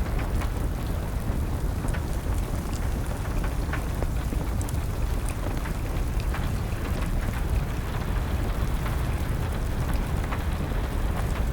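Steady rain with a wood fire crackling, its small pops scattered irregularly over a continuous low rushing noise.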